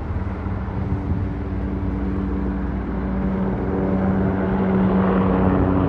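An engine droning at a steady pitch, slowly growing louder as it approaches.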